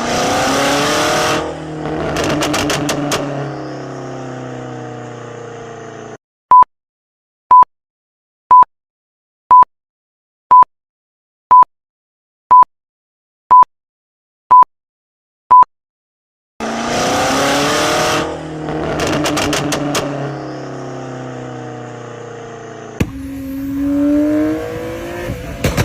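A performance car's engine revving, its pitch rising and falling, then ten short high beeps one a second, a quiz countdown timer, over silence. The same engine rev then plays again, and near the end a different engine sound begins.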